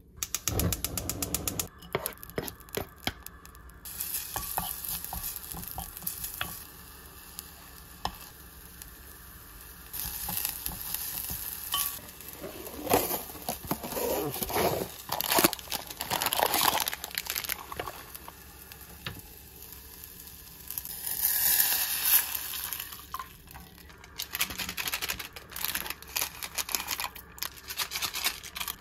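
Vegetables frying in oil in a pot on a gas stove, sizzling in waves, with a utensil stirring and scraping the pot.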